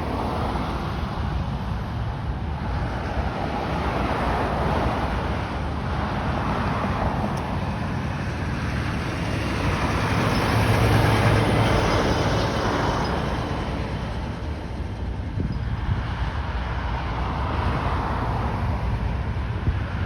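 Boeing B-17 Flying Fortress's four Wright R-1820 Cyclone radial engines running in a steady drone, swelling louder about ten seconds in and then easing off.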